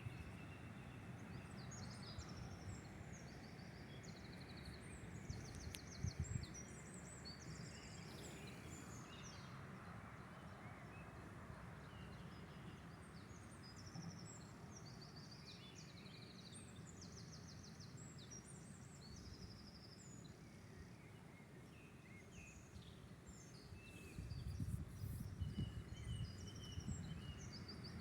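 Several songbirds singing faintly, with fast trills and short chirps overlapping one another, over a steady low rumble that swells briefly near the end.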